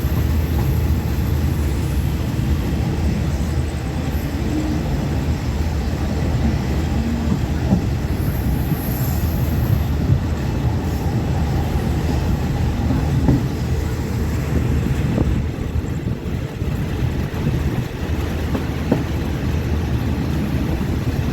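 Passenger train heard from on board as it rolls into a station platform: a steady low rumble with a few light clicks and knocks.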